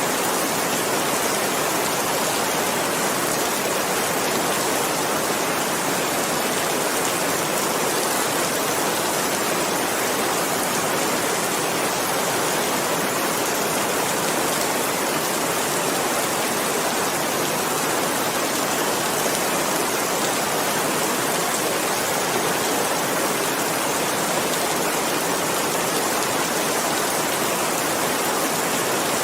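Steady rain falling, an even hiss of many drops with no distinct hits or changes.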